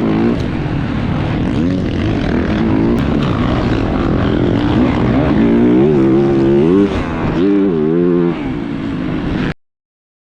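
Yamaha YZ450F single-cylinder four-stroke motocross engine revving up and down over and over, over a steady rush of noise; the sound cuts off abruptly near the end.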